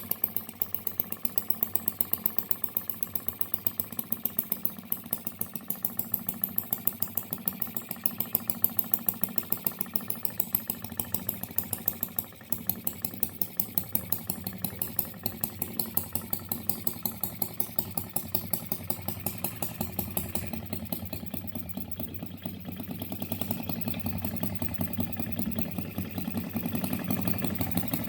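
OKMO 1105B single-cylinder model engine running with an even, regular beat of about five or six firings a second, briefly dipping once near the middle. In the last few seconds it picks up speed and the beat becomes faster and louder.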